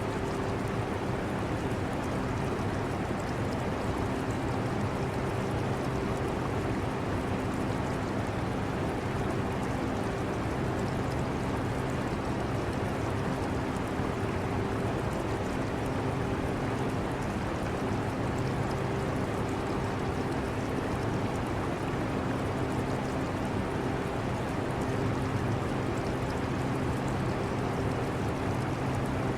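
Portable air conditioner running steadily, its motor giving a constant low hum under a rushing hiss, mixed with the trickling, bubbling water of an aquarium filter.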